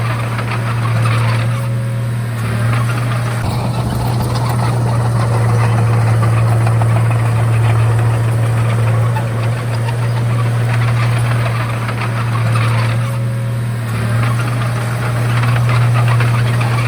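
Komatsu D31A bulldozer's diesel engine running steadily under work, a constant deep hum with a dense rattling clatter over it.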